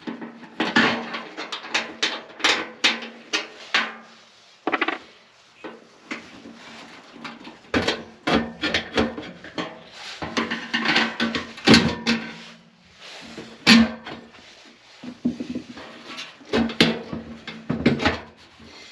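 Metal clanking, knocking and scraping in uneven bursts as a furnace blower motor is worked loose and pulled out of its squirrel-cage fan housing.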